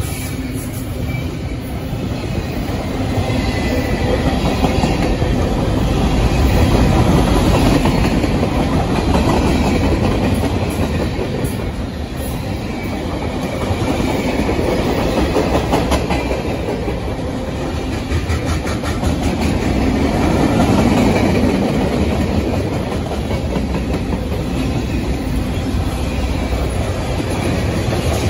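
Mixed freight train cars rolling past at close range: a steady rumble of steel wheels on rail with a clickety-clack as the wheels cross rail joints, swelling and easing slightly as the cars go by.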